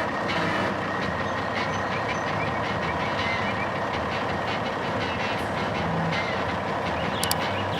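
A heavy vehicle's engine running steadily, with a faint steady tone and light ticking over it.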